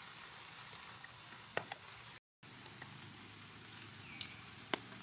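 Steady hiss of light rain with a few sharp clicks, and a short high squeak about four seconds in. The sound cuts out completely for a moment just after two seconds.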